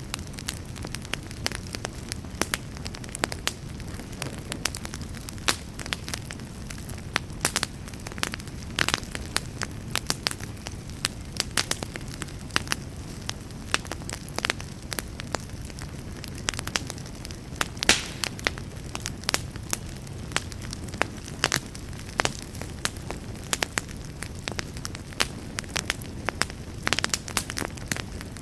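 Wood campfire burning and crackling, with irregular sharp pops and snaps, a louder one about halfway through, over a steady low rush.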